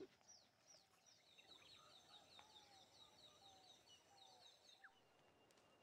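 Near silence with faint birdsong: a bird repeats short, high, falling notes in a quick series that stops near the end, with a few fainter lower calls in between.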